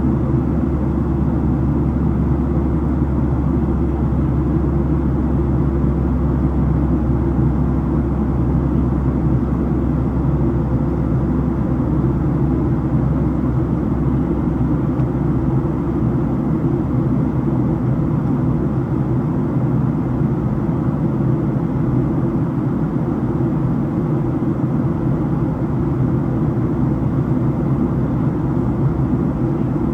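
Steady cabin noise inside a Boeing 737-700 airliner, a low rumble from its CFM56-7B engines and airflow. The deepest part of the rumble eases slightly about halfway through.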